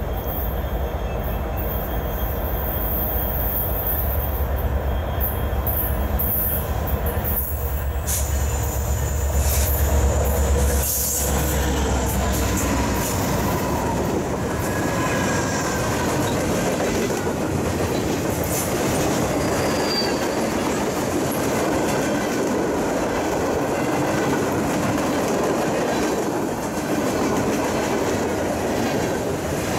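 Freight train passing close by: its diesel locomotives rumble past for about the first ten seconds, then tank cars roll by with steady wheel-on-rail noise, clacking and a few faint wheel squeals.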